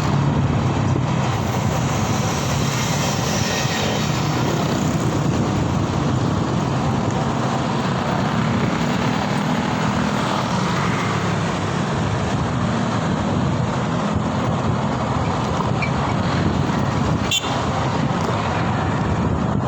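Steady road and wind noise while riding through city traffic on a Mober S10, with a brief click about 17 seconds in.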